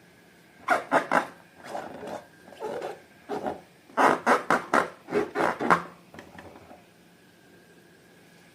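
Hands squishing and rubbing slime in a series of short strokes, with a quick run of about eight strokes in the middle of the clip.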